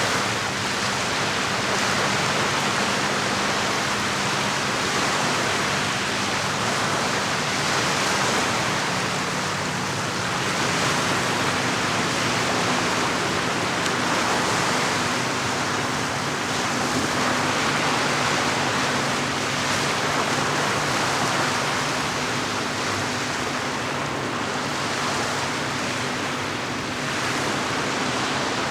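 Steady wash of lake water at the shore, swelling and easing slowly without distinct splashes.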